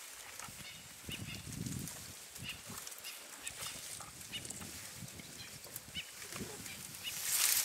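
Animal calls: short low grunts mixed with brief high squeaks and chirps, scattered irregularly.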